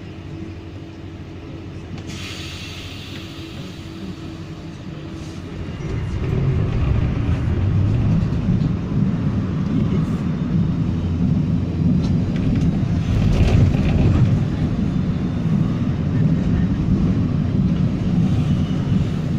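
Inside a W6 class tram: at first a steady hum with a brief hiss about two seconds in, then about six seconds in the low rumble of the tram running on its rails swells up and carries on steadily as it moves off from the stop.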